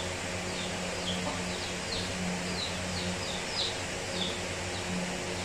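Birds chirping: a run of short, high, falling chirps, one or two a second, over a low steady hum.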